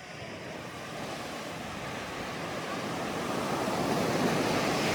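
Sea surf: a wash of waves that swells steadily louder and peaks near the end.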